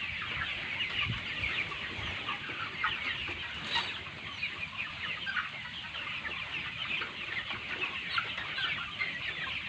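A large flock of chickens about 38 days old, clucking and cheeping all at once in a steady, dense chatter.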